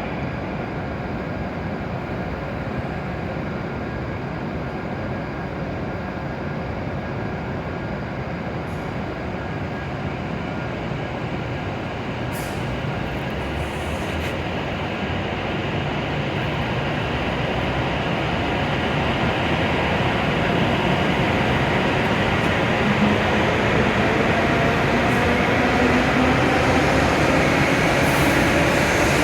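W7 series Shinkansen train pulling out of the platform: a steady rumble and hum grow slowly louder, and a faint motor whine rises in pitch as it gathers speed.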